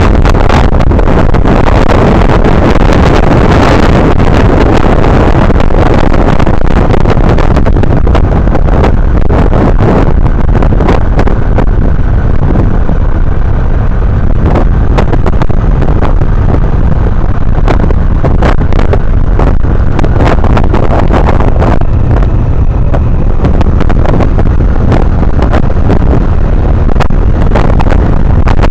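Honda Navi's small single-cylinder engine running steadily under way, with wind buffeting on the microphone.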